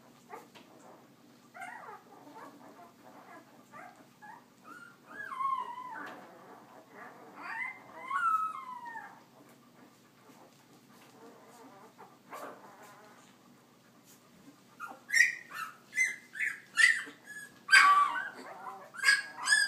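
Young puppies whimpering, with wavering, gliding whines through the first several seconds, then a run of louder, quick squeals in the last few seconds.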